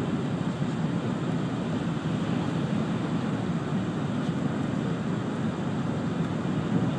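Steady rumble of a Shinkansen bullet train running, heard from inside the passenger cabin: even wheel, track and air noise with no breaks.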